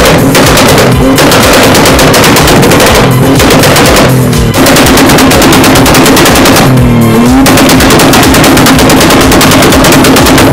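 A car engine held at high revs with a rapid, loud popping crackle; about seven seconds in the engine note dips briefly and climbs back.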